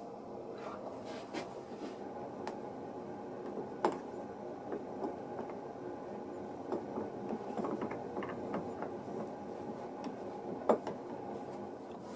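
Scattered small clicks and taps over a steady hum, with two sharper knocks, one about four seconds in and one near the end.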